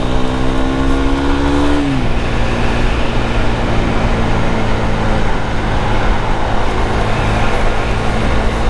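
KTM Duke 390 single-cylinder engine pulling with a slowly rising pitch that drops away sharply about two seconds in. After that the bike runs on steadily under heavy wind rush on the microphone.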